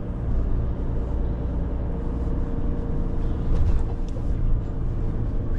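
Renault truck's diesel engine running steadily as the truck drives slowly, with a low, even rumble and hum.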